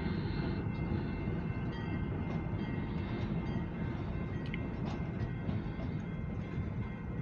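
Alco diesel locomotive running light, a steady low rumble with a few sharp clicks and faint thin high tones over it.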